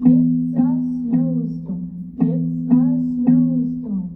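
Music on a plucked string instrument, guitar-like. Notes are struck in a steady beat of about two a second, over steady low tones.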